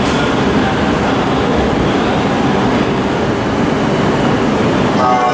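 JR electric commuter train running out along the tracks: a steady rumble and rail noise. About five seconds in, a chiming platform melody starts.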